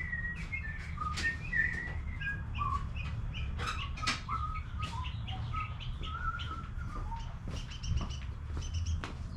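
Small birds chirping and twittering repeatedly, with a few sharp metallic clicks and clinks in between, and a steady low hum underneath.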